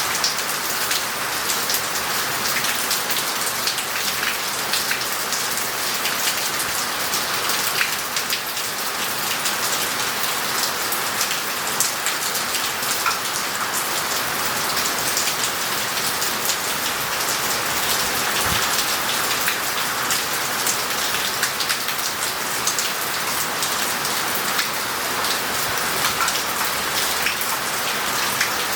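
Heavy rain falling steadily on street tiles and paving, an even hiss with many separate close drop hits.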